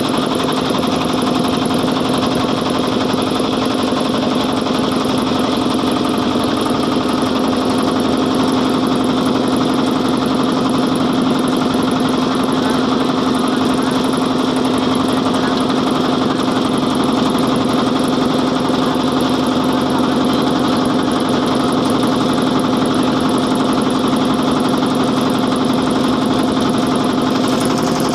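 Motorboat engine running steadily at an even speed, with a constant hum.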